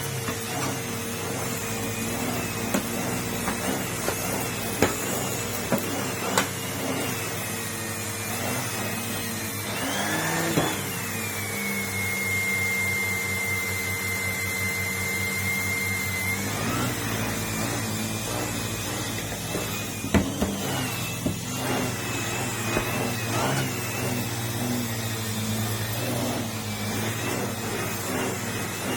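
Numatic Henry tub vacuum cleaner running steadily. A higher-pitched whine joins it for several seconds in the middle, and there are a few sharp knocks.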